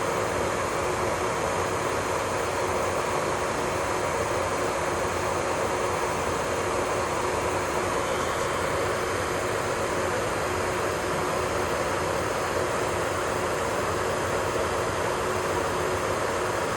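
A small electric motor running steadily, an even whir with a faint constant hum and no change in speed.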